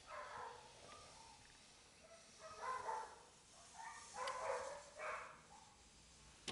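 A dog barking, several short barks in uneven bunches.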